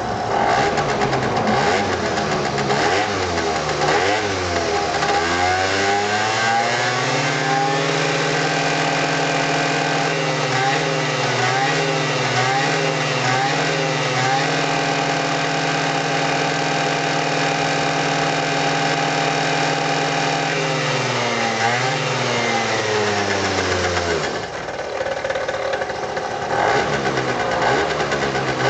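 Suzuki ZZ scooter's small two-stroke engine running: the revs climb over a few seconds, hold high with a few brief dips, then fall back in the last part and settle to a lower idle.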